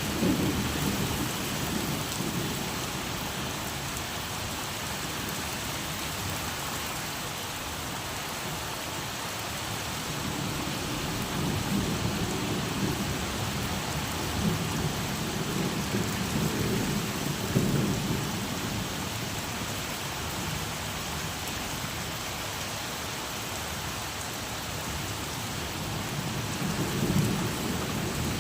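Steady rain falling, with low rolling thunder that swells and fades several times.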